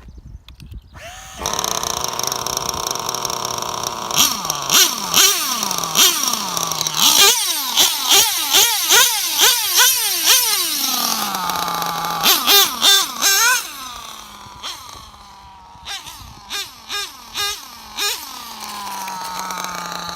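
Small glow (nitro) engine of an old Serpent RC car starting about a second in and revved in repeated short throttle blips, each rising then falling in pitch, several a second at times, settling back to a steady idle near the end.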